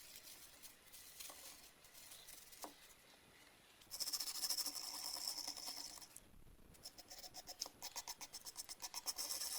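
Scratchy scrubbing as old paint, softened by paint stripper, is worked off the jack's plastic and rubber covers: a stretch of dense scratching about four seconds in, then quick back-and-forth strokes at about five a second.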